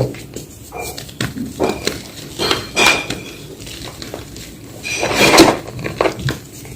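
Homemade gym chalk block being crushed and crumbled, with scattered small crackles and louder crunches about three seconds in and again around five seconds.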